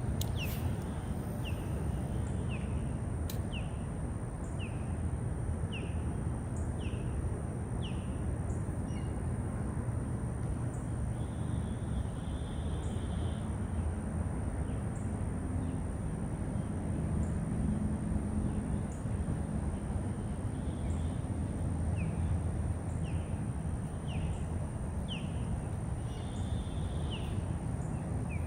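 A bird calling repeatedly, short rising chirps about once a second that pause now and then, with twice a short buzzy note, over a steady low rushing noise.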